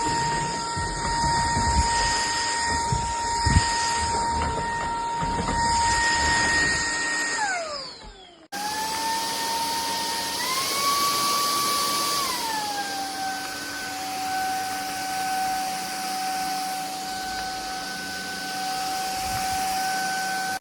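Cordless stick vacuum's motor running with a steady high whine, then winding down with falling pitch and stopping about eight seconds in. After a sudden cut it runs again; its whine steps up in pitch about two seconds later, then drops to a lower steady pitch.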